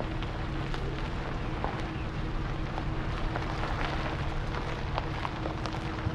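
A vehicle driving over a dirt or gravel road: a steady low engine drone and road rumble, with small stones crackling and ticking under the tyres.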